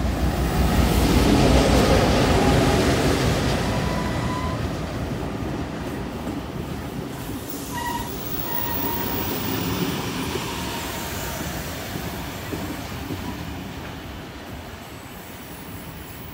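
NSW 42 class diesel-electric locomotive, its EMD V16 two-stroke engine running as it passes close, loudest about two seconds in. Its train of heritage carriages then rolls past with a steady rumble of wheels on rail, brief high wheel squeals around four seconds and again about eight to ten seconds in, and the sound slowly fades toward the end.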